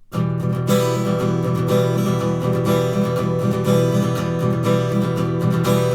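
Acoustic guitar strummed fast in the gallop pattern: continuous triplets of down-up-down strokes, every third downstroke accented by striking the bass strings. It starts just after the opening.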